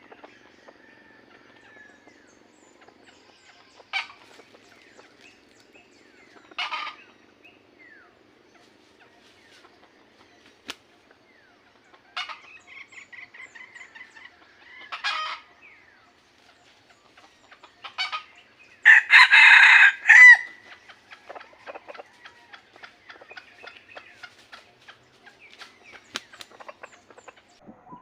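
Rooster giving short calls every few seconds, then one long, loud crow about two-thirds of the way through, followed by faint clicking.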